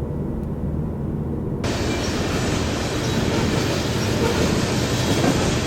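Steady low drone of a car on the move, then a sudden switch about a second and a half in to a louder, hissing rumble of a train passing on the tracks.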